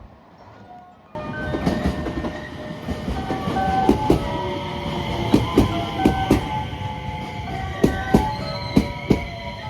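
A train running through the station, its wheels clacking over the rail joints in irregular pairs as each bogie passes, beginning abruptly about a second in.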